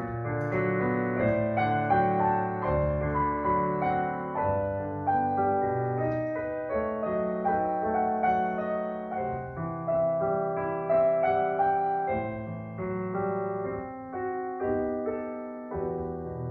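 Solo piano playing a melodic piece, single notes over low chords, one note after another without a break.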